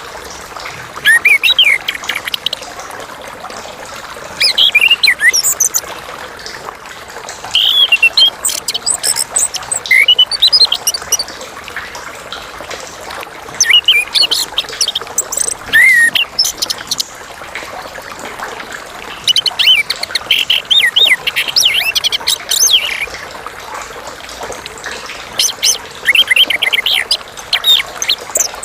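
Chestnut-capped thrush (Geokichla interpres) singing: loud, clear, varied whistled phrases of about a second each, repeated every few seconds, with a longer run of notes near the middle.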